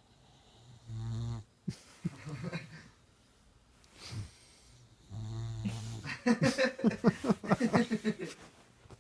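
Boxer puppy snoring: low buzzing snores about a second in and again about five seconds in, each followed by noisier breaths. The second runs into a louder, choppy stretch of rapid pulses that lasts several seconds.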